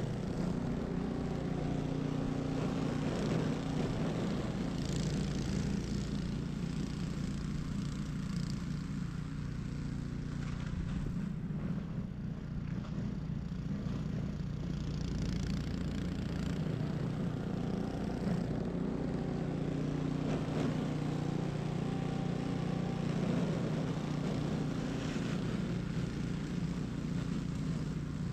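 Ariens 21-inch Professional snow blower running steadily while clearing snow. Its engine note eases briefly around the middle and then picks back up.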